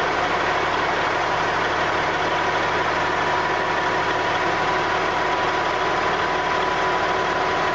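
Western Star dump truck's Cat 3406B inline-six turbo diesel running steadily with an even, unchanging note and a thin steady whine over it.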